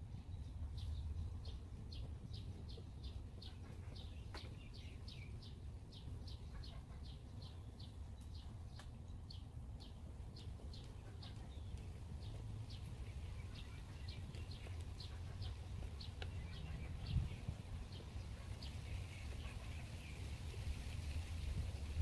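A small bird chirping one short, high note over and over, about twice a second, thinning out after about sixteen seconds, over a steady low rumble. A dull thump comes about seventeen seconds in.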